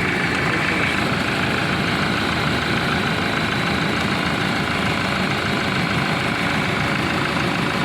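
2007 Land Rover Defender's diesel engine idling steadily. Its crank-no-start fault has been traced to a loose injector wiring connection, and the engine is now running with no fault stored.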